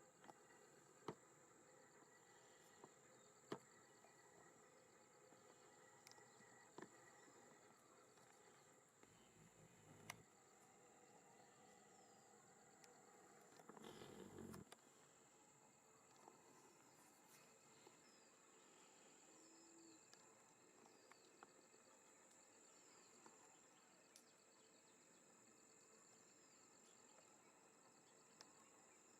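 Near silence: faint outdoor ambience with a steady high-pitched insect drone, a few faint scattered clicks, and a short burst of noise about fourteen seconds in.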